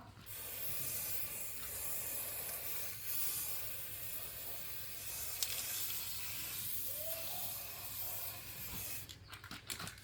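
A steady hiss, breaking off briefly a few times near the end, with a single sharp click about halfway through.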